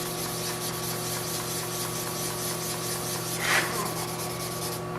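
Wet-sanding a deep scratch in car paint: sandpaper rubbing back and forth over the panel in quick, even strokes, a steady rasping hiss. There is one louder swish about three and a half seconds in.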